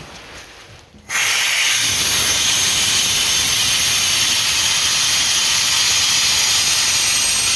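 Compressed air blasting out of a TU6A diesel locomotive's air reservoir as its drain valve is opened about a second in: a sudden, loud, steady hiss as the reservoir is blown down to purge condensate.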